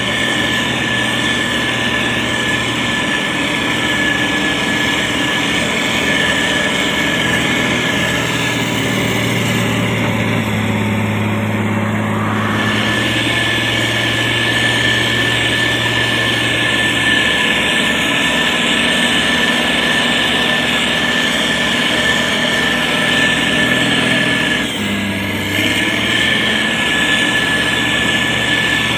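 SANY STG190C-8S motor grader's diesel engine running steadily with a constant high whine. The engine note shifts about ten to thirteen seconds in and again near twenty-five seconds.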